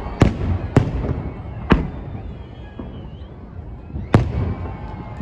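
Fireworks display: aerial shells bursting in sharp bangs, three in the first two seconds and one more about four seconds in, over a continuous low rumble of further bursts.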